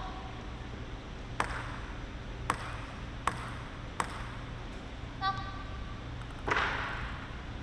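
Table tennis ball clicking sharply four times, under a second apart, as it is struck and bounces. This is followed by a short squeak and then a brief, louder scuffing sound.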